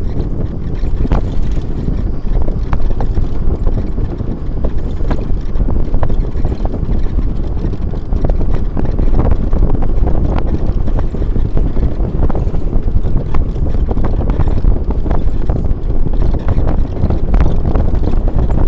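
Wind buffeting the microphone, with a steady low rumble and scattered short knocks throughout.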